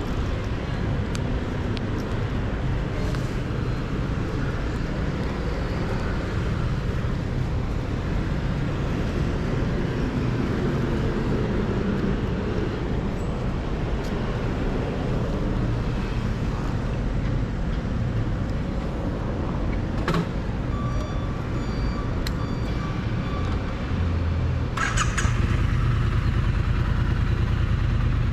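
Triumph Bonneville T100 parallel-twin engine running steadily at low revs, heard close to the exhaust. About 25 seconds in, the exhaust note grows louder and fuller as the engine picks up revs.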